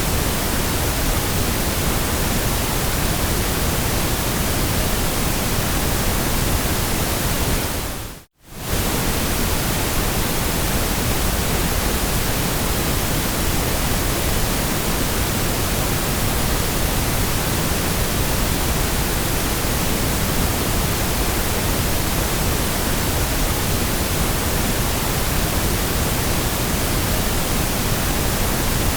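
Steady white-noise sleep track: an even, featureless hiss from deep rumble to high fizz. It fades out to silence for a moment about eight seconds in and comes straight back.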